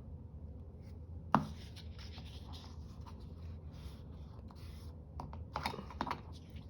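Paper being handled and rubbed: a sharp tap about a second and a half in, then scratchy rustling, with a louder spell of scratching near the end.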